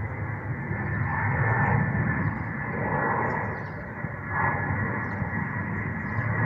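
Jet airliner on landing approach: a steady engine rumble with a thin high whine, swelling and easing a few times.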